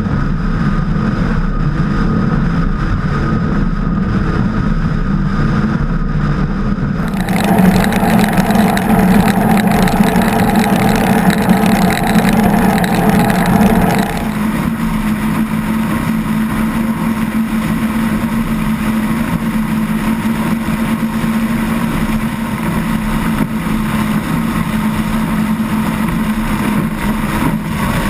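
Engines of a 36 Skater catamaran powerboat running steadily under way, with a strong low engine note over rushing noise. The sound changes abruptly about seven seconds in and again about halfway through.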